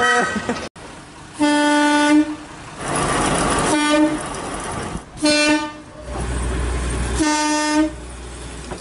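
Talyllyn Railway locomotive toots at one pitch, four times: a blast of about a second, then three shorter toots. Hissing and a low rumble come between the toots.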